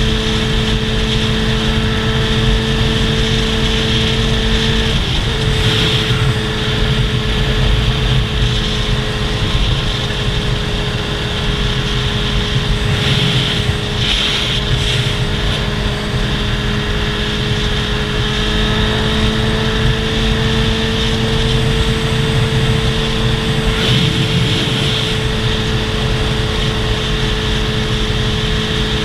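Motorcycle engine running at a steady, even pitch for a long stretch, with a small shift in pitch about five seconds in, over a constant rushing noise.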